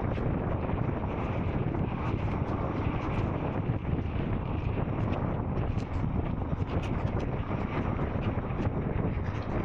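Royal Enfield Scram 440's single-cylinder engine running steadily under way, with wind buffeting the microphone.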